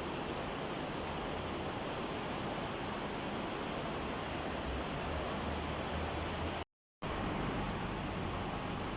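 Steady rushing roar of a mountain waterfall, broken by a split second of total silence about seven seconds in.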